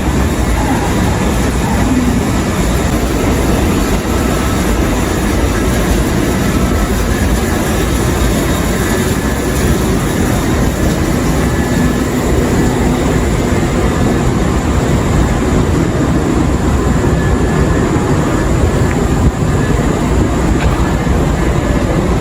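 Train running with a steady, unbroken rumble and rail noise.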